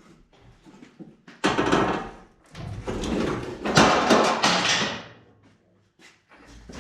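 Heavy metal scraping and grinding as a Camaro's engine is dragged and pried loose from the engine bay on a hoist: a short scrape about a second and a half in, then a longer, louder grinding scrape lasting a couple of seconds.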